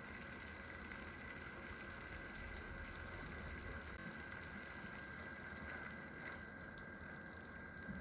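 Bolognese meat sauce simmering in a pan, a faint, steady bubbling.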